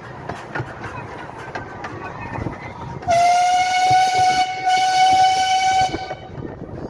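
Miniature steam railway train running, its wheels clicking over the rail joints. About three seconds in, the locomotive's whistle blows one loud, steady note for about three seconds, then the clicking runs on.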